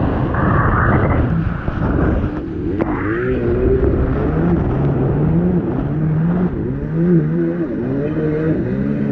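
Kawasaki X2 jet ski's 650 two-stroke twin running under way, its pitch rising and falling repeatedly as the throttle is worked, with a rush of wind and water over it in the first couple of seconds.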